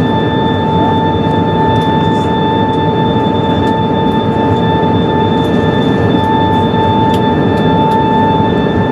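Airbus A380 cabin noise on descent: a steady rush of air and engine noise with a steady high whine from the flap drive as the flaps extend to position 1.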